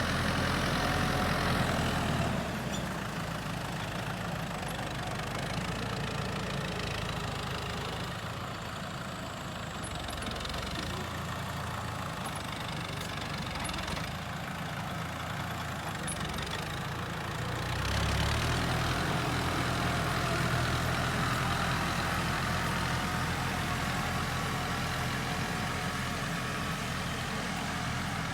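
Tractor engine running steadily, louder in the first couple of seconds, easing off through the middle and picking up again about two-thirds of the way through.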